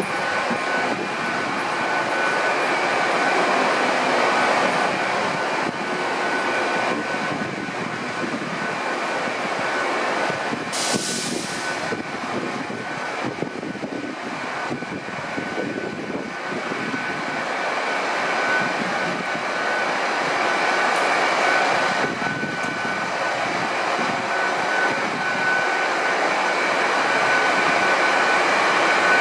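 Hitachi Class 800 bi-mode train running slowly alongside the platform on its underfloor diesel engines: a steady mechanical drone with a constant high whine. A short hiss of air sounds about eleven seconds in.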